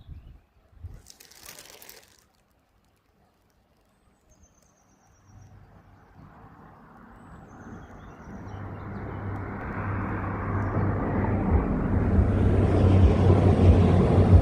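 Train approaching: a rumble with a steady low hum that builds from near silence about five seconds in and grows steadily louder. A few faint bird chirps come before it.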